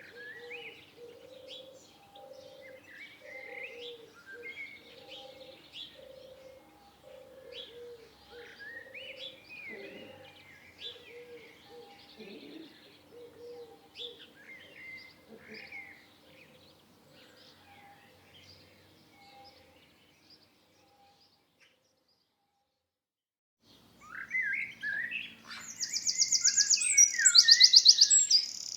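Songbirds chirping and twittering, with many short rising and falling calls and a low note repeating steadily beneath them. Near the three-quarter mark the sound drops almost to nothing. It then comes back as a much louder, denser chorus of chirps and rapid high trills.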